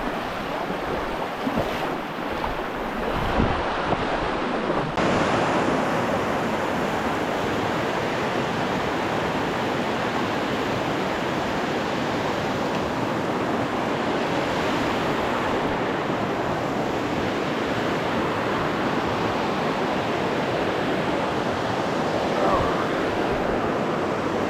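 Steady rush of fast-flowing creek water, an even noise that gets a little louder about five seconds in.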